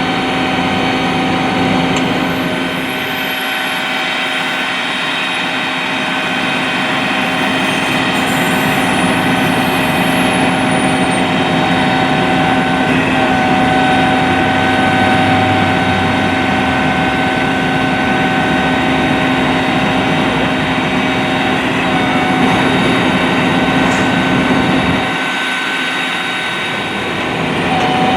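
Large vehicle engine running steadily at idle, a constant drone with several steady tones over it.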